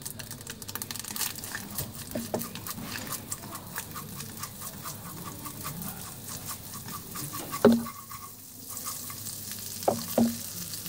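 Chopped garlic, ginger and shallots frying in hot cooking oil in a pan, a steady crackling sizzle as they are stirred with chopsticks. A sharp knock sounds about eight seconds in and two more come close together near the end.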